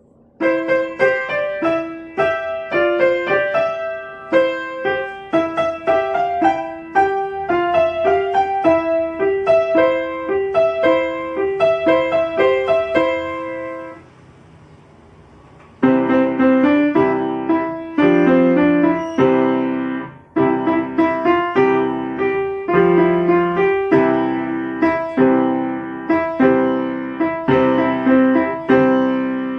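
Piano played by a young pupil, simple beginner pieces in short notes. A single-note melody stops about 14 seconds in, and after a pause of about two seconds a second passage begins with lower notes and chords.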